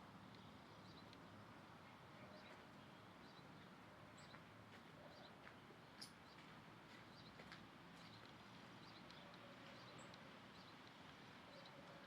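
Faint, scattered short chirps of small birds over a low steady hiss, with one sharp click about six seconds in.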